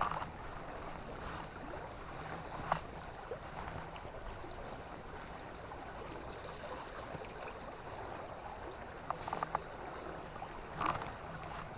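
River water running steadily, with a few short sharp clicks: one about three seconds in and a small cluster near the end.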